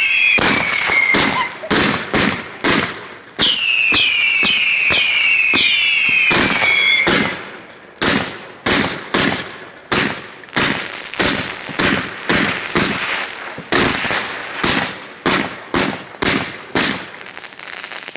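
Fireworks going off. For about the first seven seconds there are repeated falling whistles over loud crackling. After that comes a string of sharp firecracker bangs, roughly two a second, each fading quickly.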